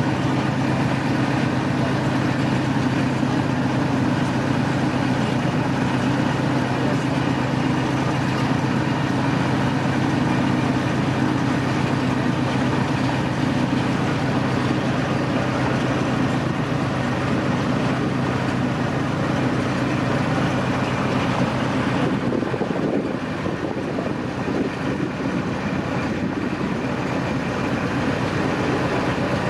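Running noise heard aboard a tourist train: a steady engine drone over continuous rolling noise, the drone dropping away about 22 seconds in while the rolling noise carries on.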